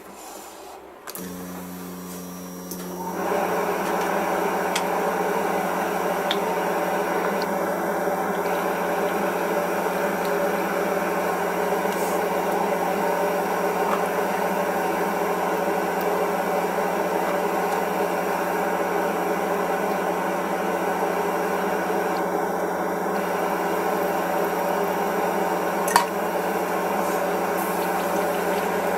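Small airbrush compressor motor starting about a second in, coming up to full speed a couple of seconds later and then running with a steady hum. A single sharp click sounds near the end.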